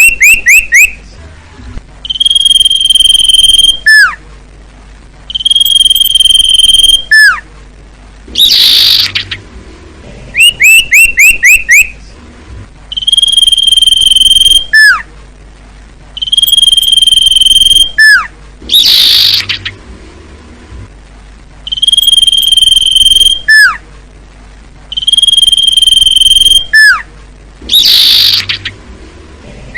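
Common iora song played as a looped recording. It repeats a long steady whistle, a sharply falling note and a quick run of short rising chirps, with a harsh scratchy call about every ten seconds.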